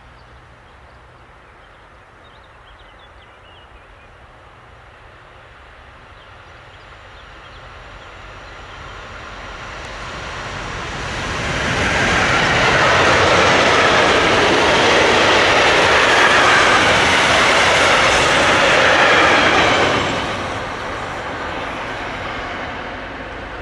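Freight train hauled by a DB class 152 electric locomotive passing at speed: the rumble of its wheels on the rails builds as it approaches, is loudest for about eight seconds as the covered wagons roll close by, then drops sharply about twenty seconds in and fades as the train recedes.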